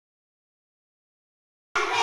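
Dead silence, then near the end singing starts abruptly, held sung notes at full level.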